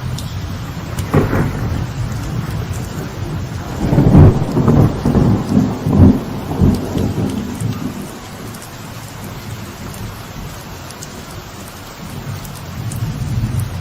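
Light rain falling on a veranda, with thunder: a short crack about a second in, then a loud rolling rumble from about four to seven seconds in, after which the rain goes on more quietly before building again near the end.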